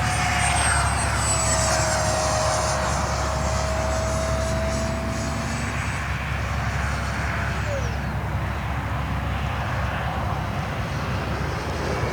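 Radio-controlled model airplane flying a loop overhead, its motor whining steadily. The whine sags slightly in pitch and then drops away about eight seconds in.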